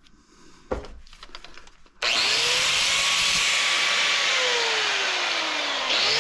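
A sharp knock and light handling clicks, then about two seconds in a handheld power tool switches on and runs loudly and steadily, its pitch dipping and recovering.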